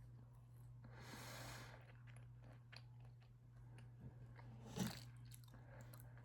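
Faint chewing of a soft brownie: small wet mouth clicks, a breathy exhale or sniff about a second in, and one louder smacking sound near the end, over a steady low electrical hum.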